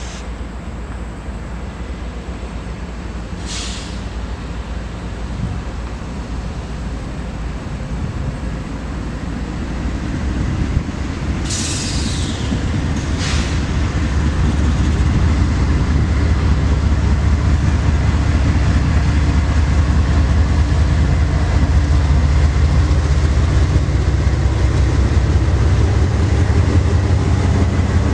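Freight train's diesel locomotives approaching, a low rumble building up over the first half and then running loud and steady as the train passes. A few brief high-pitched noises sound in the first half.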